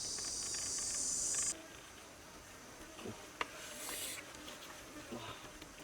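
Insects trilling in a steady high chorus, cut off suddenly about one and a half seconds in. After that come faint scattered clicks and a brief scraping sound about four seconds in.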